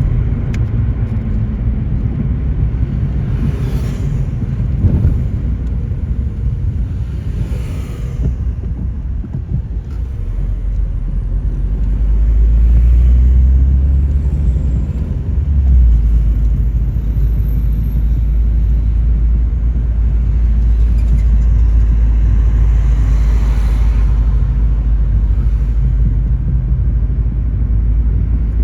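A car on the move: steady low road and engine rumble that grows heavier about halfway through, with a few brief swells of hiss over it.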